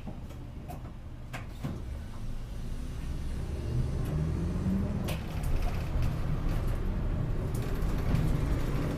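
City route bus heard from inside the cabin: engine and road rumble, growing louder as the bus gathers speed, with the engine note rising about four seconds in, and small clicks and rattles from the interior.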